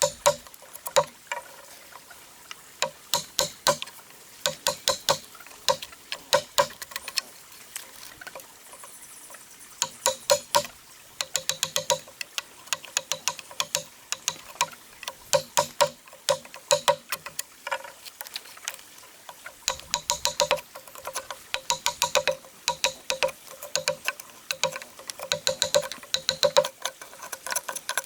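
A hand tool striking wood in quick runs of sharp, slightly ringing knocks, several a second, with short pauses between runs.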